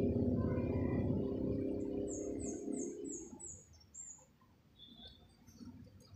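A bird calling a quick run of five short, high chirps, each falling slightly, starting about two seconds in, over a low rumble that fades out a little after the chirps begin.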